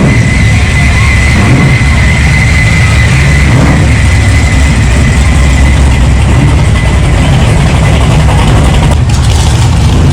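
Car engines running and revving, a loud, continuous low rumble, with a steady high whine over it for the first few seconds.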